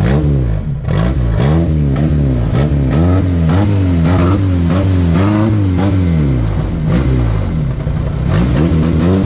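Off-road vehicle's engine revving up and down over and over, about twice a second, as the stuck vehicle tries to drive itself out of the ravine.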